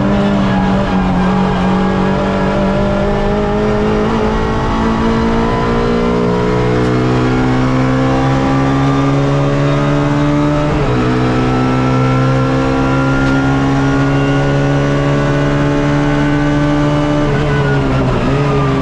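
Onboard sound of a Suzuki Swift race car's engine at full throttle, its pitch climbing slowly, with brief upshifts about four and eleven seconds in. Near the end the engine note drops as the driver lifts off.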